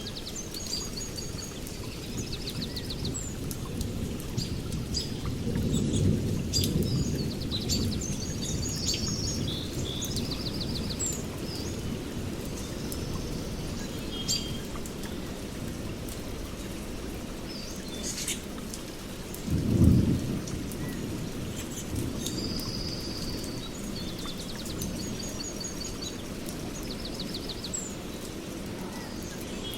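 Songbirds calling with repeated short trills over a steady low rush of running water. The low rumble swells a few seconds in and gives one brief, louder surge about twenty seconds in.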